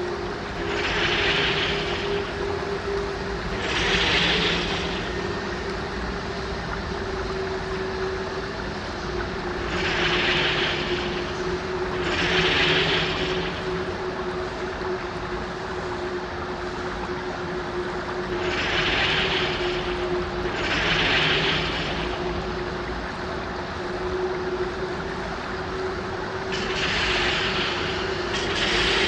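Film sound-effects ambience bed: a steady low droning hum, with pairs of airy whooshing swells that rise and fall about every eight seconds.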